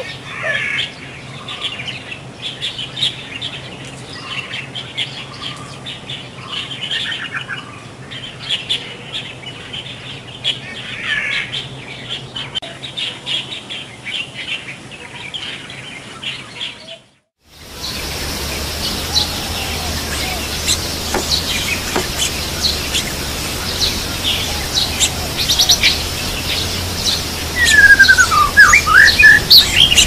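Wild birds chirping and calling in short, quick notes. The sound cuts out briefly about 17 seconds in, then comes back as a different recording with a low steady hum under the chirps. Near the end there are several loud sweeping calls.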